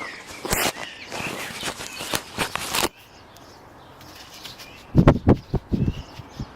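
Wind on an action camera's microphone under a fur windscreen. A rustling hiss fills the first three seconds, then a few low buffeting gusts come about five seconds in. Birds chirp faintly in the background.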